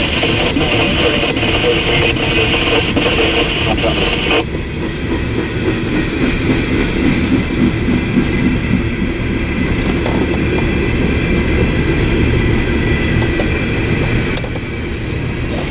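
Train rolling past, a steady rumble of wheels on rail with clicking joints. A high ringing with regular ticks runs alongside and cuts off suddenly about four seconds in.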